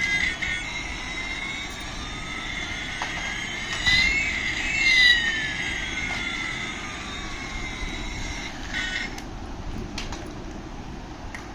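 Electronic sound effect from a battery-operated toy's small speaker: two tones sweep slowly in opposite directions, one rising and one falling, crossing midway, over a steady beep-like tone and hiss.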